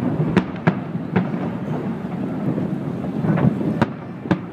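Aerial fireworks shells bursting across a harbour, heard as a series of sharp bangs over a continuous low rumble. About three bangs come in the first second and a half and two or three more near the end.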